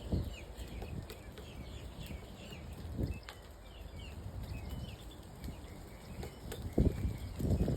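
Small birds chirping over and over in the background, with a few dull low thumps about three seconds in and again near the end.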